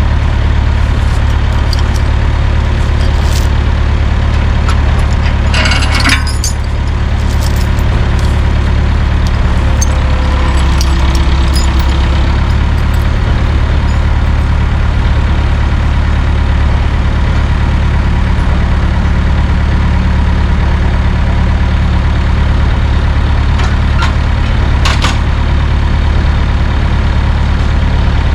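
Truck engine idling steadily, with a short hiss about six seconds in and a few sharp metallic clinks.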